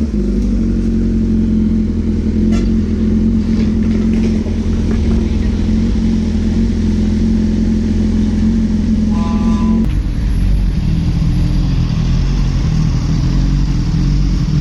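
Motorcycle engine idling steadily, its note shifting about ten seconds in, with a brief higher-pitched tone just before the change.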